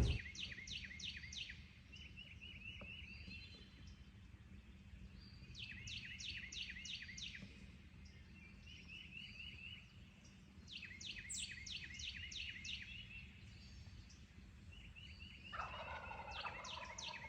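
Wild turkey gobbling at a distance, four times, a few seconds apart, over a faint low rumble.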